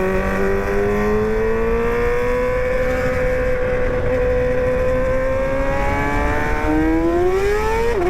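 Motorcycle engine running at steady high revs while riding, then revving up near the end with a quick dip in pitch, as at a gear change.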